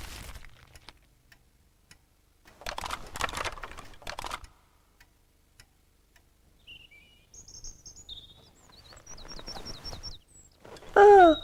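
Small birds chirping in short high notes, including a quick run of downward chirps, after a brief burst of noise. A louder call sliding down in pitch comes right at the end.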